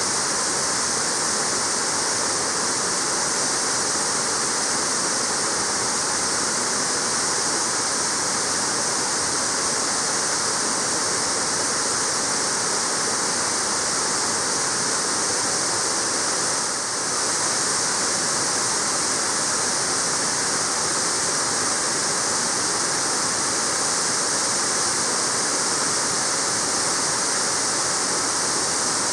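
Waterfall pouring steadily, a continuous full rushing of falling water.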